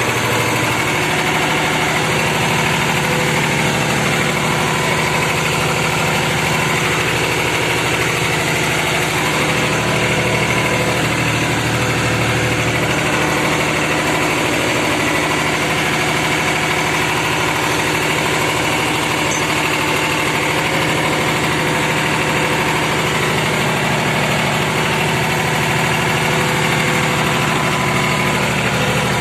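New Holland 3630 tractor's diesel engine idling steadily, a constant low hum with an even hiss above it.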